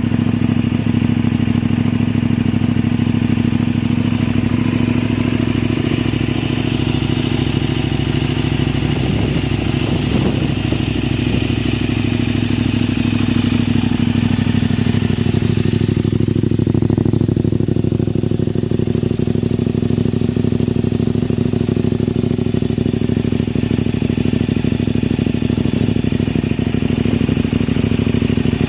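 KTM 990 Super Duke's V-twin engine running steadily through a Yoshimura aftermarket exhaust, its note holding an even pitch with only slight shifts around the middle.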